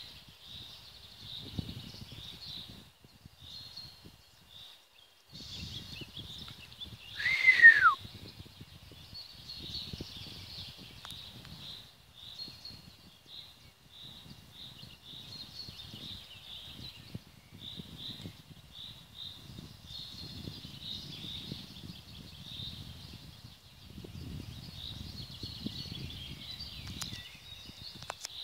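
Small forest birds chirping and singing continuously in short high notes, over an on-and-off low rumble on the microphone. About seven seconds in, one loud call slides down in pitch and stands out above everything else.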